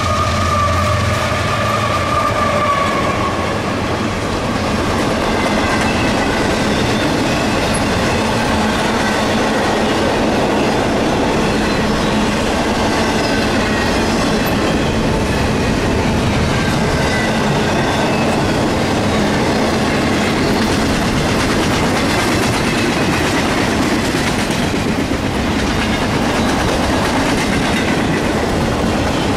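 CSX double-stack intermodal train passing close by. The last of its GE diesel locomotives go by at the start, with a tone that fades out over the first few seconds. Then comes the steady rumble and wheel clatter of the loaded container well cars, with faint wheel squeals.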